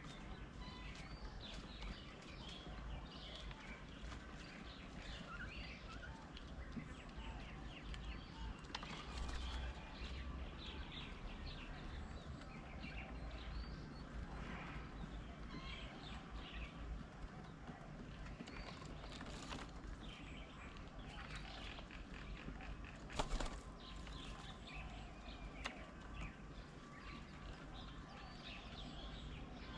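Outdoor garden ambience: many small birds chirping and calling on and off at a distance, over a steady low rumble, with one sharp knock about three quarters of the way through.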